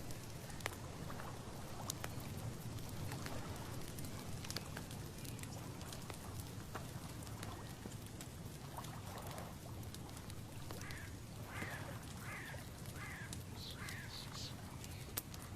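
Outdoor ambience: a steady low rumble with scattered small ticks. From about two-thirds of the way through, a bird gives a run of about six short calls, each under a second apart.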